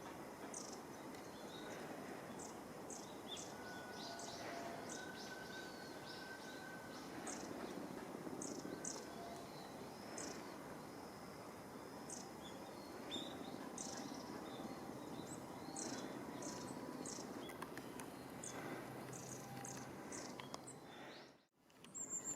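A mixed flock of long-tailed tits and Japanese tits calling: many short, thin, high-pitched calls in quick succession over a steady background hum. The sound drops out briefly near the end.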